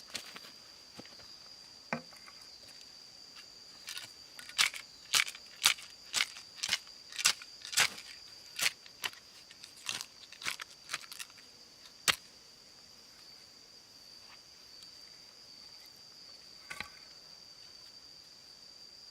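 A steady high insect drone, typical of rainforest crickets or cicadas, runs throughout. Over it come about fifteen sharp cracks, roughly two a second, from about four to twelve seconds in: hand work on wood or sticks.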